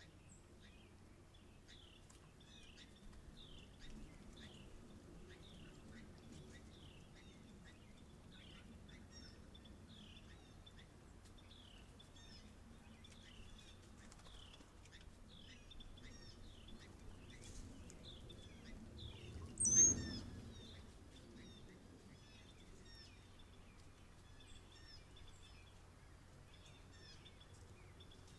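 Outdoor birdsong: a bird repeats short, downward-sliding chirps about once or twice a second, with other scattered calls. About twenty seconds in comes one sudden loud, high call together with a thump.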